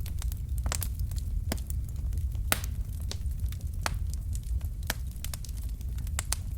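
Wood fire crackling in a fireplace: irregular sharp pops and snaps, sometimes several close together, over a steady low rumble.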